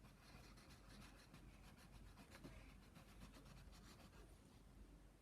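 Near silence with faint rustling and light scratching of paper being handled.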